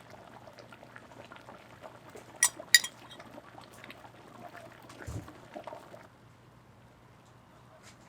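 Liquid pouring with utensils clinking against dishes, two sharp clinks about two and a half seconds in and a dull thump about five seconds in.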